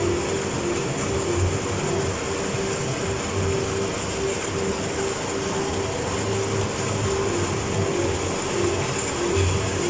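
Hospital suction unit running continuously: a steady hiss with a slightly wavering mid hum and a thin high whine.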